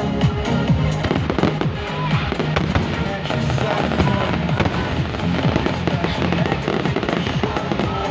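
Fireworks display: a continuous barrage of bangs and crackling bursts going off in quick succession.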